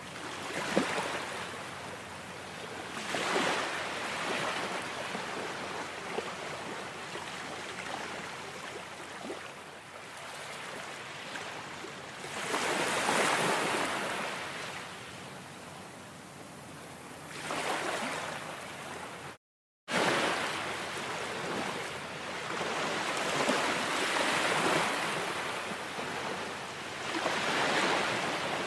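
Ocean surf: waves breaking and washing in, swelling and falling every few seconds. A brief cut to silence, about half a second long, comes about two-thirds of the way through.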